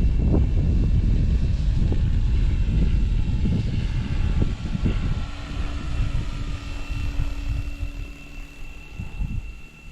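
Direct-drive electric RC helicopter (SAB Goblin Fireball) in flight: its motor and rotor give a steady high whine, and a lower steady hum joins about halfway. Heavy low rumbling buffeting is loudest in the first half and eases off after it.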